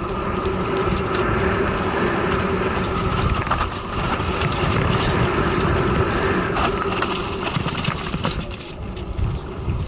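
Mountain bike riding down a rough trail: tyres rumbling over dirt and rocks with a steady hum, and the bike rattling, with scattered knocks and clicks that grow more frequent near the end.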